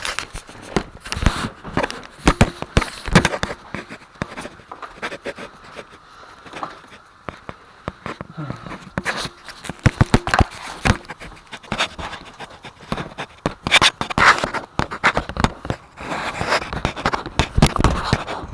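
Irregular knocks, clicks and scraping of objects being handled and moved about.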